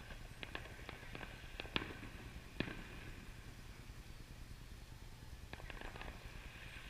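Distant fireworks going off as a scattered series of faint pops and cracks, with two louder reports about two seconds in and a quick cluster of crackles near the end.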